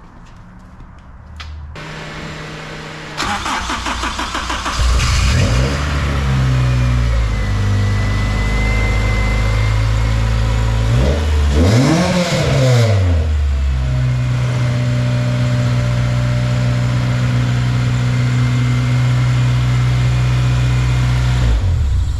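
Acura RSX Type S's K20A2 2.0-litre four-cylinder engine cranking on the starter for about a second and a half, catching, and settling from a fast idle to a steady idle. It is revved once about halfway through, rising and falling, then idles steadily.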